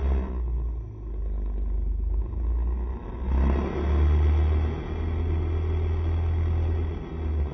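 Riding noise from a Honda SCR110 scooter: a heavy, fluctuating low wind rumble on the microphone over road and engine noise, dipping briefly about a second in and again near the end.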